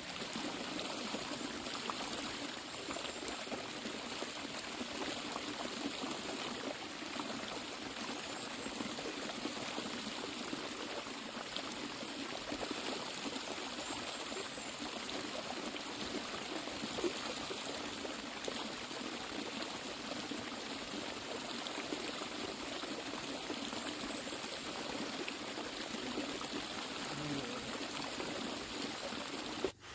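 Water running steadily in a stream, an even rushing sound that cuts off suddenly at the very end.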